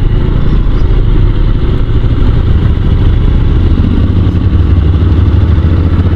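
Honda NC750 DCT's parallel-twin engine running under way at low revs, heard on board; its pitch climbs a little near the end.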